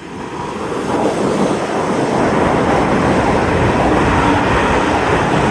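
A pair of coupled Class 800 IET multiple units passing at speed, a steady rushing noise that builds over the first second or so and then holds loud.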